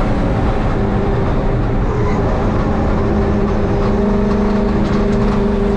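Turbocharged 5.7-litre LS1 V8 in a 1951 Chevy race truck running under load on track at a steady pitch, getting stronger about halfway through. The turbo is making only about 4 psi of boost, because the wastegate takes its boost reference at the compressor.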